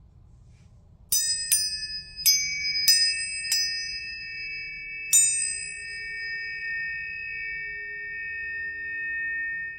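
Tuning forks struck six times within about four seconds. Each strike starts with a sharp tap, and the clear high tones pile up and ring on steadily.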